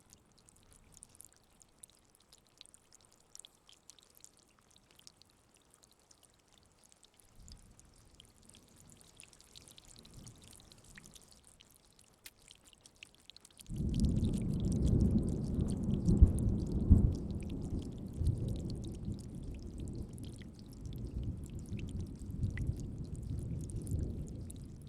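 Rain falling steadily as a light patter. About halfway through, a loud, low roll of thunder comes in suddenly, grows loudest a few seconds later and slowly dies away.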